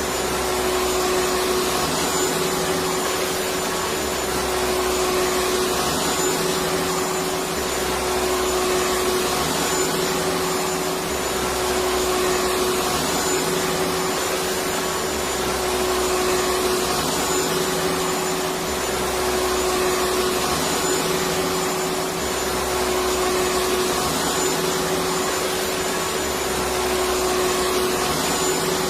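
Electric vacuum cleaner running continuously: a steady rushing noise over a constant motor hum, unchanging throughout.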